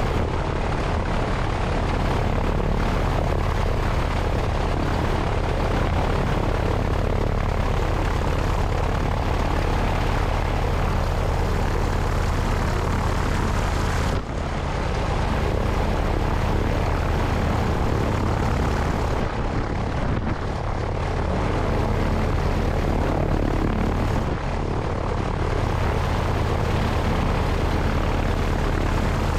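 Cessna 172's piston engine and propeller running steadily, with a heavy rush of wind over the wing-mounted microphone. The sound dips briefly a few times.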